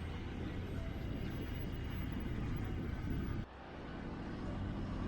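Steady road and engine noise of a car driving, mostly low rumble; it drops off abruptly about three and a half seconds in and builds back up.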